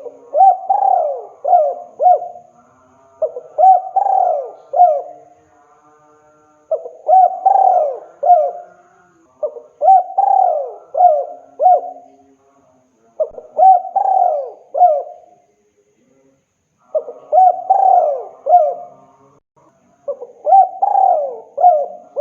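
Spotted dove (tekukur) cooing, a male calling for a female: short phrases of three or four coo notes, repeated about every three seconds, seven phrases in all.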